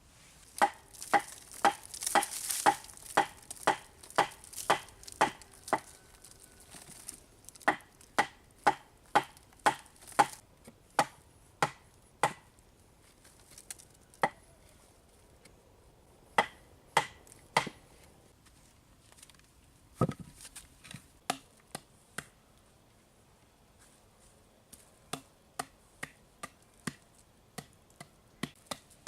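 Repeated chopping strikes of a blade into wood, about two a second in a long run, then fewer and spaced out. There is one heavier, duller thud about two-thirds of the way through, and lighter, quicker strikes near the end.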